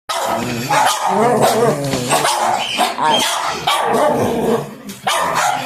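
Dog barking repeatedly, with hardly a pause between barks, and a dip in level shortly before the end.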